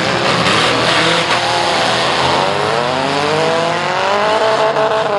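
Several small demolition-derby cars' engines running loud together, with one engine revving up steadily from about two seconds in and easing off near the end.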